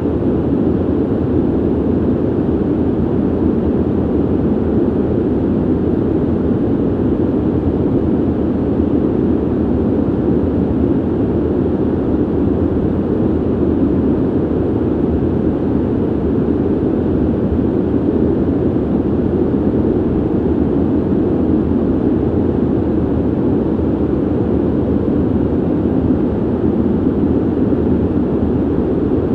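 Steady low ventilation noise: an even, unbroken rush of air, strongest in the low range and dull rather than hissy.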